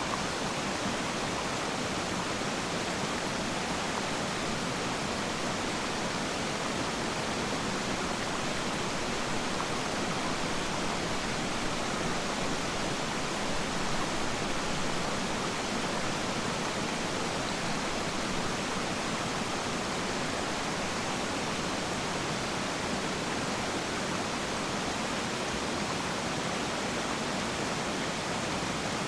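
Waterfall: steady, unbroken rush of falling water.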